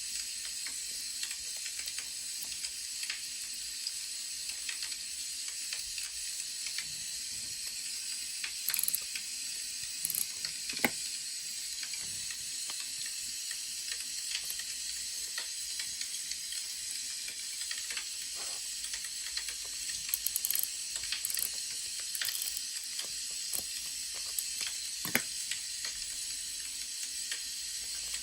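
Wood fire crackling: a steady hiss with many small crackles and a few louder pops, two standing out near the middle and near the end.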